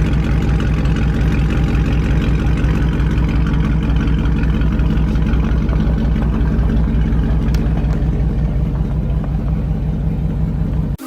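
2019 Dodge Charger Scat Pack's 6.4-litre 392 HEMI V8 running at a steady engine speed, a loud, even exhaust rumble with no revving. It cuts off suddenly near the end.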